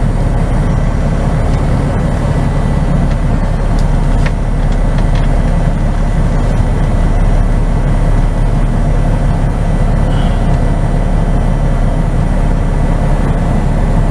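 Semi truck's diesel engine running steadily at low speed while the tractor-trailer is maneuvered and backed up.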